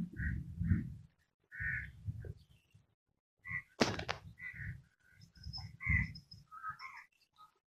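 Frogs croaking in short, separate calls, with faint high bird chirps about two-thirds of the way through and one sharp click near the middle.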